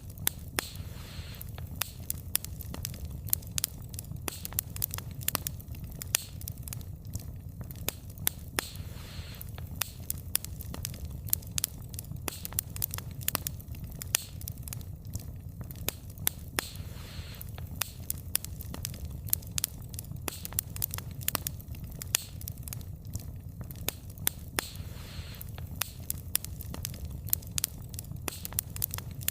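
Wood fire burning: a steady low rumble of flames with frequent sharp, irregular crackles and pops of burning logs, and now and then a brief hiss.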